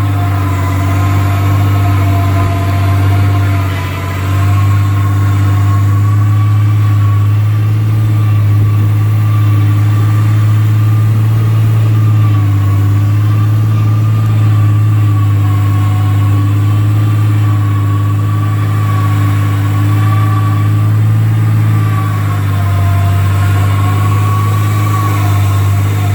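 Vehicle engine running at a steady speed: a deep, even drone with fainter higher whines that waver slightly in pitch, and a brief dip in loudness about four seconds in.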